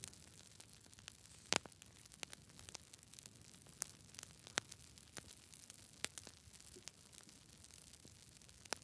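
Wood campfire crackling: irregular sharp pops and snaps over a faint hiss, the loudest pop about a second and a half in.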